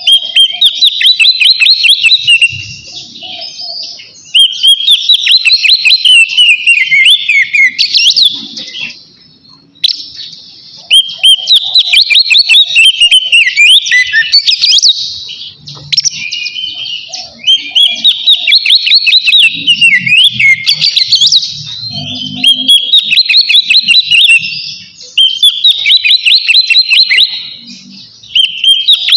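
Oriental magpie-robin (kacer) singing its loud, full 'ngeplong' song: long phrases of rapid, sweeping whistled notes, broken by brief pauses every few seconds. It is the song of a bird calling out a rival.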